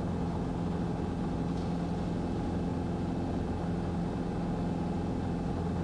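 Cessna 150 piston engine and propeller droning steadily in cruise, heard inside the cabin as an even low hum.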